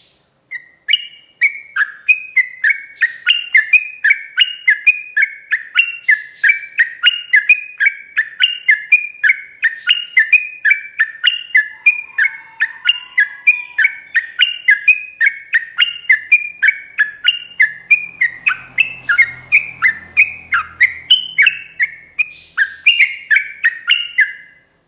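Trucuk bulbul singing a long, unbroken run of rapid repeated whistled notes (ropel), about two falling notes a second.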